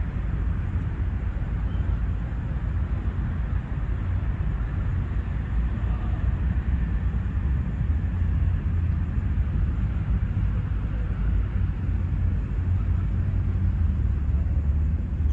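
Outdoor park ambience: a steady low rumble with a faint haze of distant sound above it and no clear single event.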